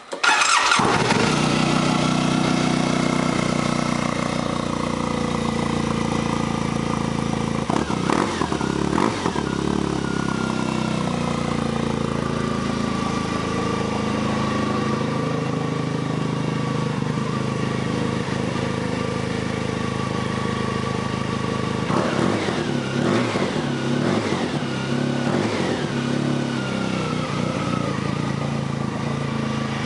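2007 Polaris FST snowmobile's four-stroke turbo twin through a straight-pipe exhaust, coming in suddenly and loud, then idling steadily. A couple of short throttle blips about eight seconds in, and a run of several quick blips a little past twenty seconds.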